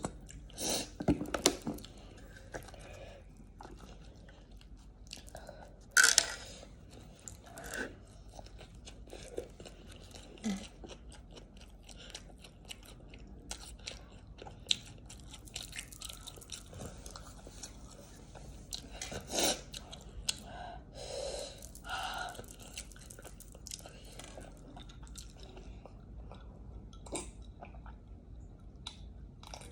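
Close-miked eating: steady chewing with many small wet mouth clicks and a few louder crunching bites, the loudest about six seconds in.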